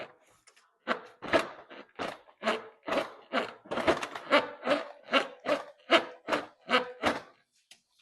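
A rapid series of about sixteen short, sharp strokes, roughly two a second, from hand work on the intake hose and fittings in the engine bay of a Mercedes C250.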